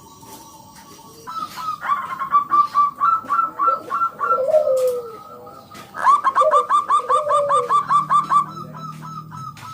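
Zebra dove (perkutut) song: two bursts of rapid, rhythmic staccato cooing notes, the first starting about a second in and the second about six seconds in, each with a lower drawn-out coo beneath.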